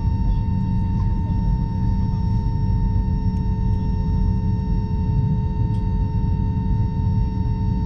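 Airbus A321 cabin noise: a steady low rumble with a constant whine on top, unchanging throughout.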